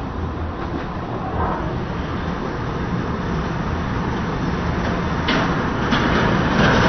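Tornado winds: a steady low rumbling roar that slowly grows louder, with a harsh hiss joining about five seconds in.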